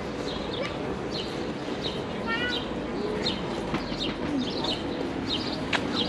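Small birds chirping over and over in short high notes, with a quick run of falling notes about two seconds in, over a steady background hum of street noise; one sharp click near the end.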